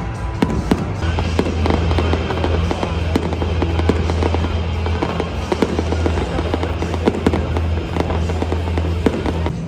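Stadium fireworks show: a rapid string of sharp cracks and pops with dense crackling, over music with a steady deep bass.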